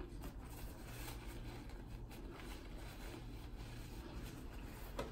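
A person chewing a mouthful of fried chicken sandwich, with faint, irregular crunching clicks and one sharper click near the end, over a low steady room hum.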